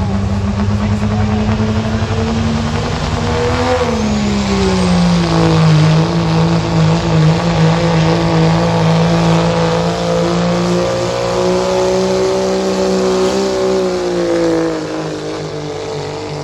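Diesel pulling truck's engine running hard at high revs under load. Its pitch drops sharply about four seconds in, then holds steady, and falls again near the end as the sound eases off.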